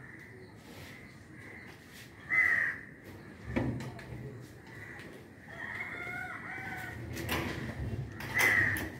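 Birds calling: two short, loud calls about two seconds in and near the end, and longer calls with several tones in the middle, over a steady high-pitched drone. Two dull knocks fall in between. The snail's feeding itself is not heard.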